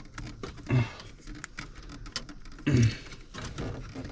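Light clicking and ticking of hand tools and metal parts while a switch is fitted and bolted in, with two louder dull bumps, about a second in and near three seconds.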